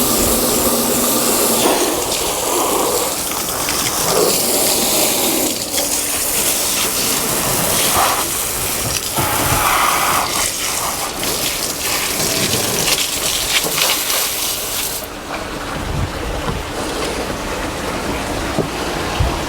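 Steady hissing spray of water against a boat during washing, with a motor hum in the first couple of seconds. The hiss stops about fifteen seconds in, leaving a lower rumble.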